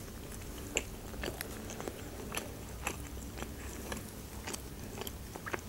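A person chewing a mouthful of food close to the microphone: soft, irregular mouth clicks and smacks, a few a second.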